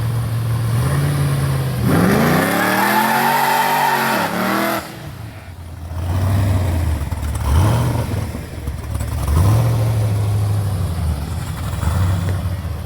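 Car engine idling, then revved hard about two seconds in and held high for nearly three seconds before dropping back. It is revved up twice more later: a quick blip, then a longer rev.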